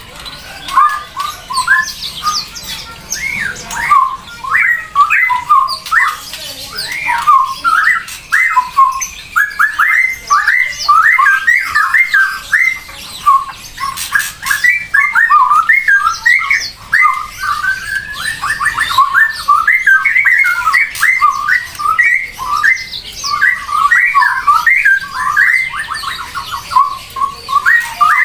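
A bird calling almost without pause: a rapid, continuous stream of short chirps and squawks.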